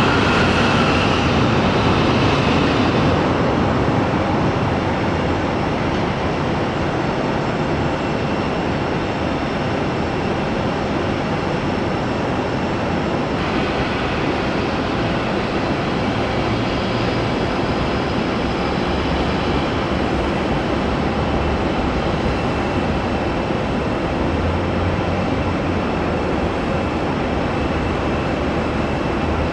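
Jet airliner engines, a loud steady rush with a high whine that fades out over the first few seconds.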